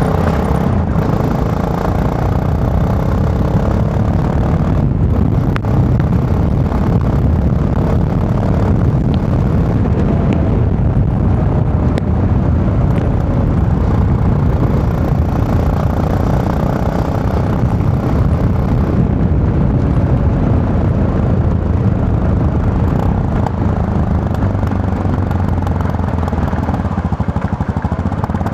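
Yamaha MT-03 motorcycle engine running under way, its revs rising and falling a little as it rides.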